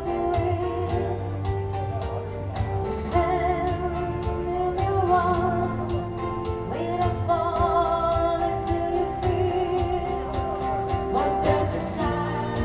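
A song: a singer holding notes with vibrato over backing music with a steady beat.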